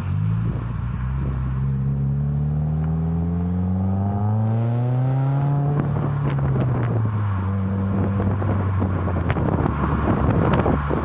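Subaru WRX's turbocharged flat-four through an ISR MBSE catback exhaust with an added resonator, pulling steadily up in revs for about five seconds. The pitch then drops back over a second or two as the throttle comes off, and it settles to a steady cruise, with wind noise on the microphone.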